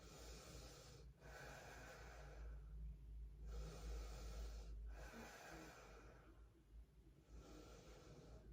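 Faint, slow breathing of a woman resting in a yoga pose: about five soft breaths, each a second or so long, with short pauses between.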